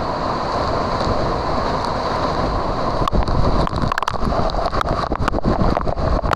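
Waterfall water pouring and splashing, loud and steady, turning choppy with sharp crackles about halfway through as the falling water hits close to the microphone.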